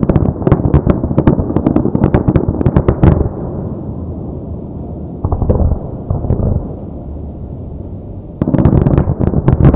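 Fireworks display. A rapid volley of aerial shell bursts and crackling reports lasts about three seconds and gives way to a quieter lingering rumble with a few scattered bangs. A new dense volley starts suddenly near the end.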